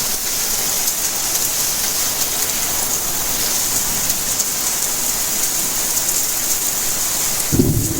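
Steady rainfall hiss. About half a second before the end, a loud low rumble of thunder breaks in suddenly.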